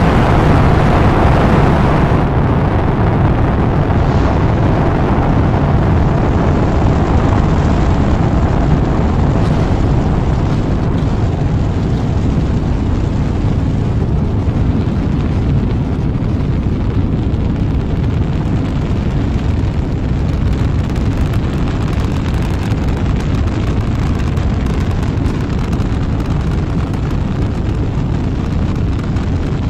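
Rocket engines at launch: a loud, steady rumble with a rough crackle. It starts suddenly at full level and eases slightly over the half minute.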